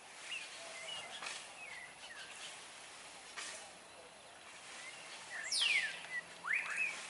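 Birds calling: scattered short chirps, then about five and a half seconds in a loud call that sweeps steeply downward, followed by two quick rising notes.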